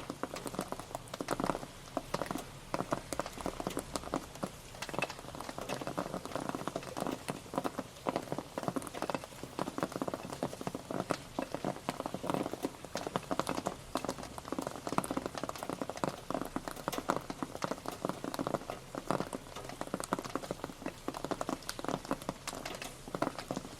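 Steady rain pattering on a surface, a dense, irregular run of drops tapping with no letup.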